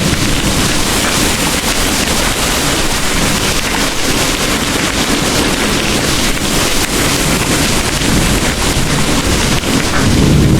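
Heavy rain pouring steadily, with a low rumble of distant thunder beginning to swell near the end.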